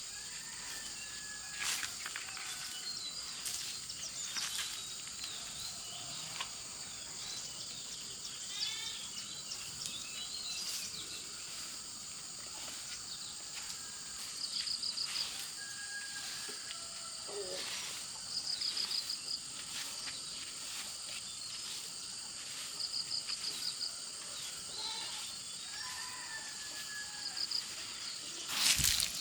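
Steady high-pitched insect chorus with birds calling over it: scattered chirps and a short rapid trill that repeats about every four seconds. A louder burst of rustling comes near the end.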